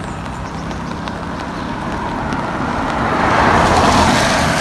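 A car passing on a wet road: a steady rumble with rising tyre hiss that peaks near the end and then begins to fade.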